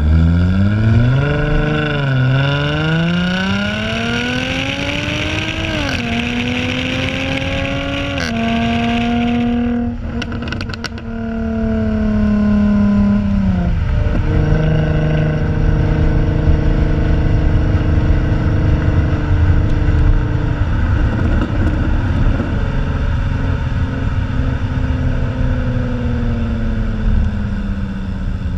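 Jaguar F-Type's supercharged 3-litre V6 accelerating hard, its pitch climbing in steps through several upshifts, then a short run of sharp crackles from the exhaust as the revs come off about ten seconds in. After that the engine runs at steady revs that sink slowly toward the end.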